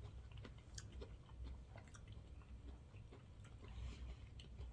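A person chewing sushi close to the microphone: faint, irregular wet mouth clicks and smacks.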